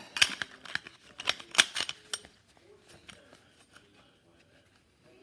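Sharp metal clinks and knocks from a steel exhaust adapter and tailpipe being handled and fitted together, several in the first two seconds, then only a few faint ticks.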